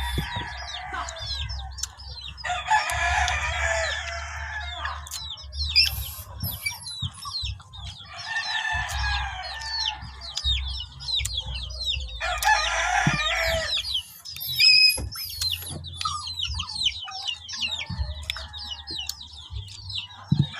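Roosters crowing, three long crows several seconds apart, with a steady chatter of short, high chirps throughout.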